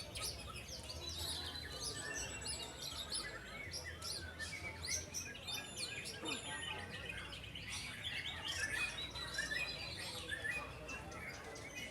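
Dense chorus of many caged songbirds, white-rumped shamas (murai batu) among them, singing at once in rapid overlapping chirps and whistles, over a faint low hum.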